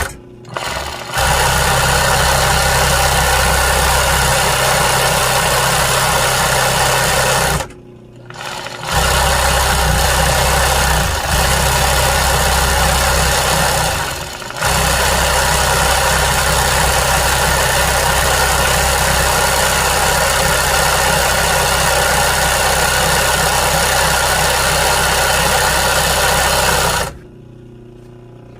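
Sewing machine stitching embroidery, running steadily in long stretches. It pauses briefly about a second in, again around eight seconds in and at about fourteen seconds, then stops shortly before the end.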